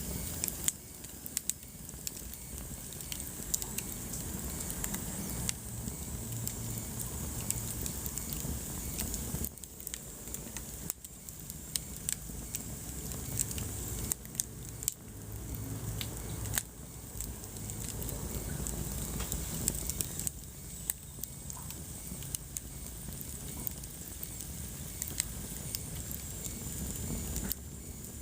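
Wood fire burning in a fireplace: a low steady rumble of the flames with frequent, irregular sharp crackles and pops from the burning logs.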